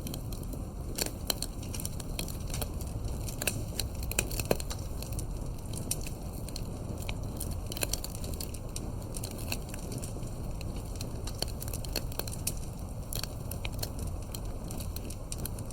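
Wood campfire crackling: irregular sharp pops and snaps, a few louder ones, over a steady low rumble.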